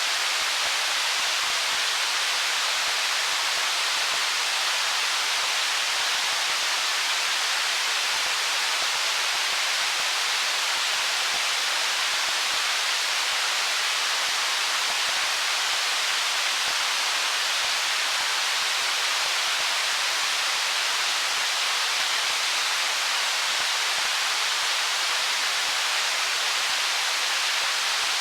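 Stream water rushing over stones: a steady, even hiss, mostly high, with no change in level.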